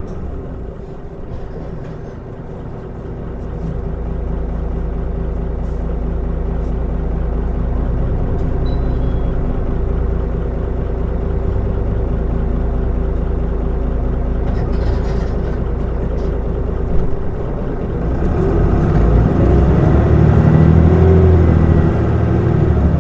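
Mitsubishi Fuso Aerostar city bus's six-cylinder turbo diesel engine running under way with a steady drone and heavy low rumble. The engine note grows louder a few seconds in. A single sharp click comes near the end, and then the engine pitch rises and falls as the speed changes.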